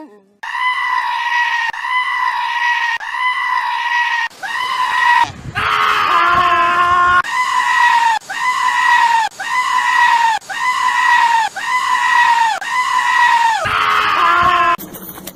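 A goat screaming over and over, about one high-pitched cry a second in a steady run. Between about five and seven seconds in, and again near the end, a lower, rougher bleat breaks the run.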